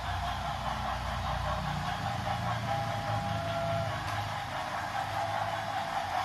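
A train running with a steady rumble; a faint two-note tone sounds briefly near the middle.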